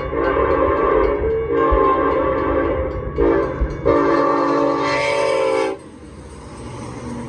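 Multi-tone train horn sounded in four blasts, long, long, short, long: the grade-crossing signal. A quieter running rumble follows the last blast.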